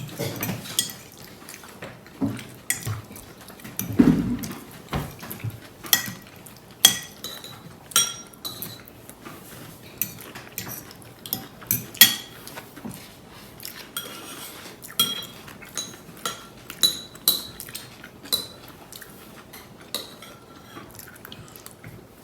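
Cutlery clinking against dishes during a meal: irregular sharp taps and clinks with a brief ring, roughly one every second or so, and a duller knock about four seconds in.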